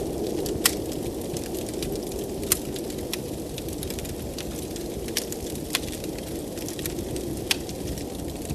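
Wood fire crackling, with irregular sharp pops, the two loudest about a second and two and a half seconds in. Under the pops runs the steady rush of blizzard wind.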